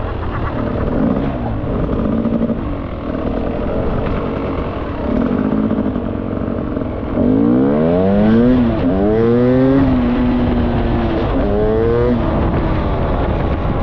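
Beta 300RR two-stroke dirt bike engine with its stock silencer, being ridden: steady running, then revving up with pitch rising in sweeps about halfway through and again near the end.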